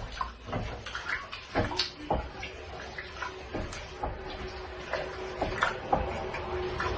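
Rice and beans being stirred in a pot of water: irregular scrapes and knocks of the utensil against the pot, with wet sloshing.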